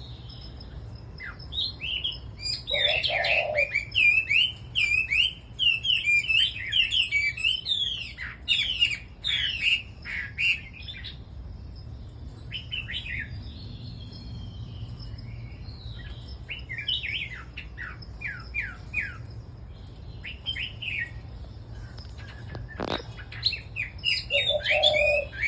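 Several caged red-whiskered bulbuls singing together: quick, overlapping bursts of chirping and warbling notes, busiest in the first half, over a steady low hum. A single sharp click comes near the end.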